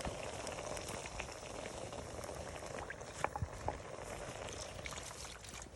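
Liquid simmering in a cooking pot: a steady bubbling hiss, with a few small pops about three seconds in.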